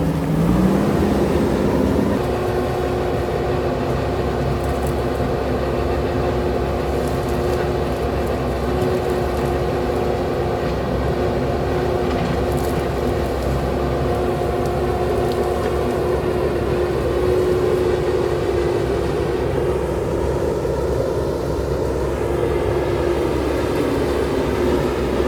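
JCB backhoe loader's diesel engine revving up over the first couple of seconds, then held at steady high revs.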